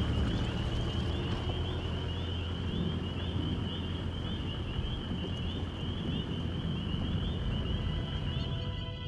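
Outdoor ambience: a steady low rumble, with a high chirping call repeating a couple of times a second throughout. Music comes in near the end.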